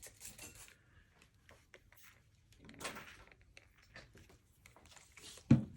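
Quiet handling sounds of watercolor painting tools, with faint scrapes and taps, a brief hiss about three seconds in, and a single low thump near the end.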